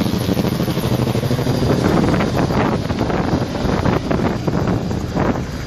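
Helicopter turbine and rotor noise, running steadily, with wind buffeting the microphone.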